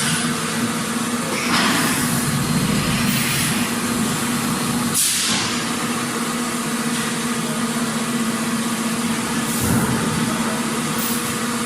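Factory floor ambience: machinery running with a steady hum under a constant mechanical din, broken by a few short hisses, the sharpest about five seconds in.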